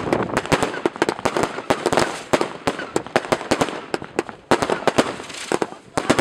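Fireworks going off in rapid succession: a dense, irregular crackle of many sharp pops and bangs, some louder than others, thinning briefly about two thirds of the way through before picking up again.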